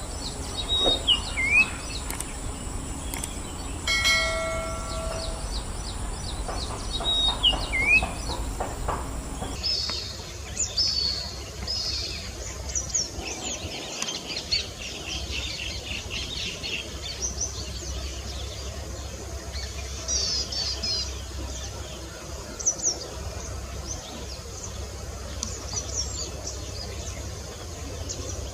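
Common iora calling: sharp whistled notes that slur downward, twice in the first part, and a steady held tone about four seconds in. About ten seconds in the recording changes to a busier run of short, high, repeated chirps.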